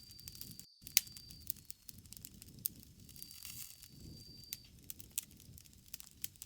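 Bonfire crackling: irregular sharp pops and snaps over a low rumble of flame, with one loud pop about a second in. A thin high steady tone comes and goes in the background.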